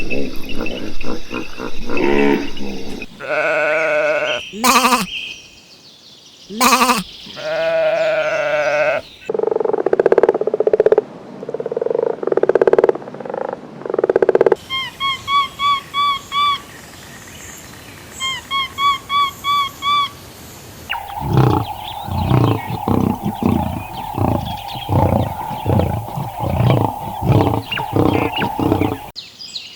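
A run of different animal calls, one after another. First come drawn-out cries with a clear pitch, then a rough, noisy stretch. Next come several groups of quick, high chirps, and last a fast, pulsing call that repeats several times a second.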